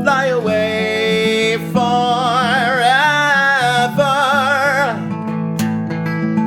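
Acoustic guitar playing steady chords under a voice holding long sung notes with vibrato, several in a row, without recognisable words.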